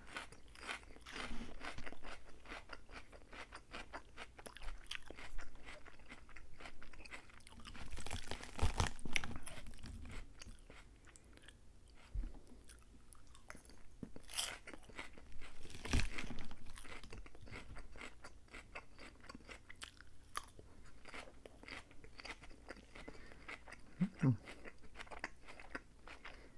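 Close-miked chewing of a lettuce salad: steady wet crunching of crisp lettuce between the teeth, with a few louder bites about a third and two thirds of the way through.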